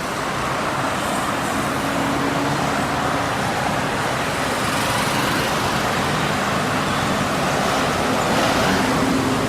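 Steady city street traffic: motor vehicles passing, with engine hum from nearby cars coming and going.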